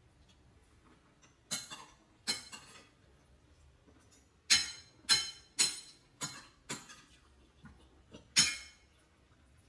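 A utensil clinking against dishware, about eight sharp clinks at uneven intervals, each with a brief ring.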